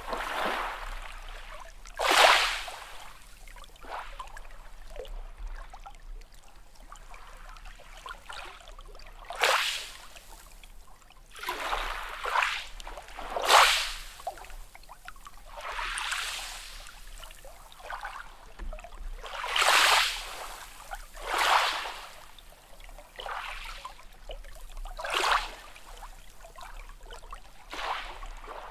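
Small sea waves lapping and splashing, a short hissing wash of water every second or two with quieter water in between.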